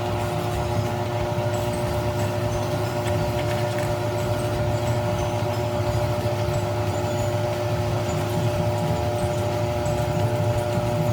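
Steady motor hum with a few constant tones and a low drone, unchanging throughout.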